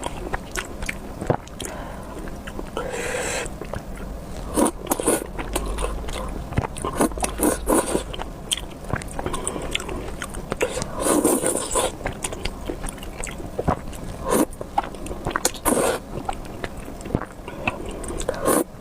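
Close-miked eating of spicy beef noodles: chewing with wet mouth clicks and smacks, broken by a few longer slurps.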